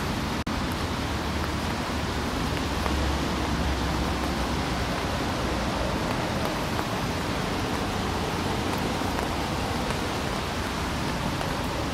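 Steady hiss of rain falling, with a low rumble underneath for the first few seconds. The sound cuts out for a split second about half a second in.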